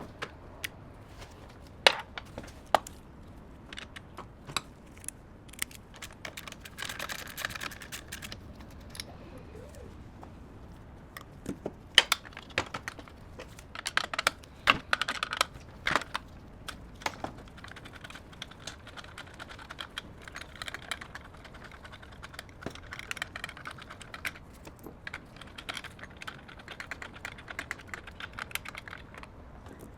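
Typing on a computer keyboard: irregular runs of quick keystrokes with short pauses between them, and a few sharper single key strikes.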